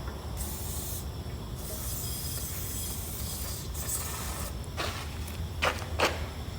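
Aerosol can of brake cleaner spraying with a steady hiss, pausing briefly about a second in, then spraying again. A few sharp knocks follow near the end.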